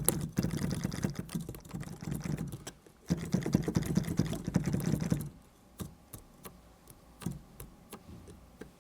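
Korg C1 Air's RH3 hammer-action keys clattering under fast playing, a dense run of mechanical key knocks with no piano tone, then slowing to scattered single key clicks about five seconds in.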